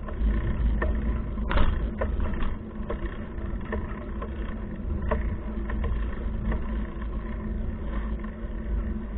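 Wind buffeting the microphone of a handlebar-mounted action camera on a moving bicycle, a steady low rumble with a few sharp rattles and clicks from the bike.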